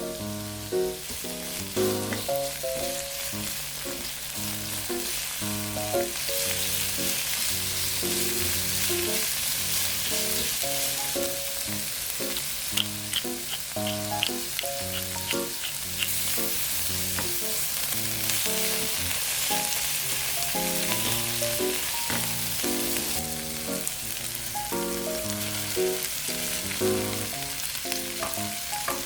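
Food frying in oil in a hot pan, a steady sizzle that grows louder about six seconds in, over light background music.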